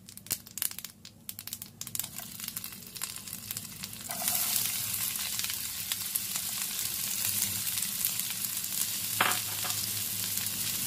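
Mustard seeds crackling and popping in hot oil in a frying pan. About four seconds in, chopped onions are tipped into the oil and it breaks into a steady sizzle, louder than the crackling.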